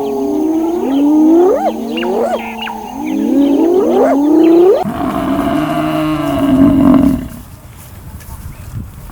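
Animal calls: a run of rising, swooping pitched cries, then a lower, held call about five seconds in that stops about two seconds later.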